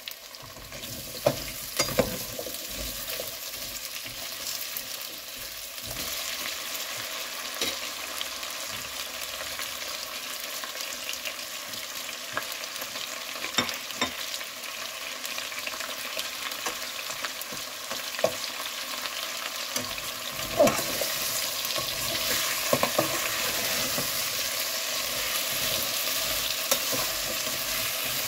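Cubed potatoes sizzling in hot oil in a metal pot, with scattered sharp knocks and scrapes of a slotted metal spoon stirring them. The sizzle grows louder about twenty seconds in.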